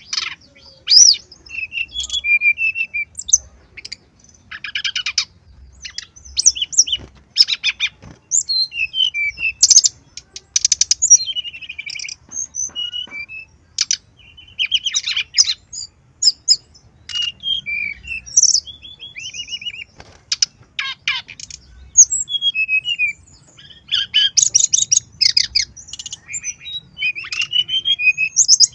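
Brown-chested jungle flycatcher singing: a varied stream of rapid chirps, trills and whistled phrases, delivered in short bursts with brief pauses between them.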